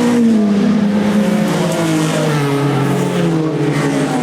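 Racing car engine running hard, its note falling steadily for about three seconds and then starting to climb again near the end.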